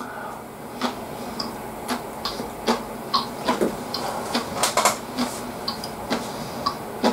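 A person chewing food with the mouth close to the microphone: irregular wet clicks and smacks, one or two a second, over a steady background hiss.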